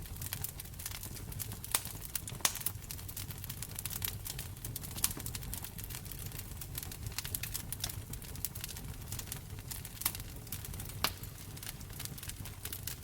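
Wood fire in a fireplace crackling, with frequent sharp pops and a few louder snaps, over a low steady rumble.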